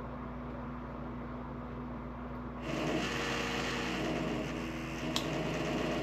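A cordless power drill runs steadily for about three and a half seconds, starting a little after two seconds in, with a sharp click near the end. A low steady hum lies underneath throughout.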